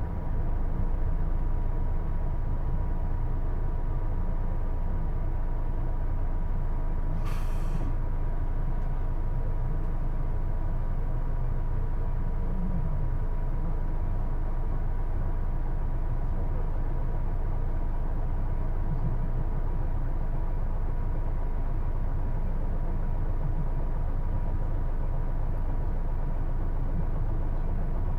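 Hino Blue Ribbon II diesel city bus heard from inside while under way: a steady low drone of the engine and drivetrain, with a short hiss of air about seven seconds in.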